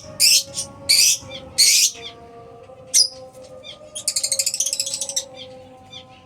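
Lovebirds calling: four loud, harsh shrieks in the first two seconds and another about three seconds in, then a fast rattling chatter lasting about a second, fading to softer chirps near the end.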